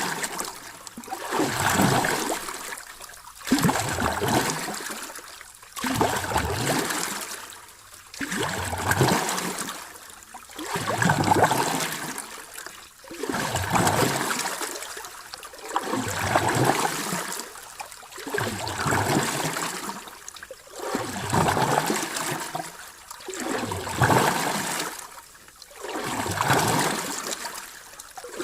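Sea waves washing in and drawing back, one soft surge about every two to three seconds in an even rhythm.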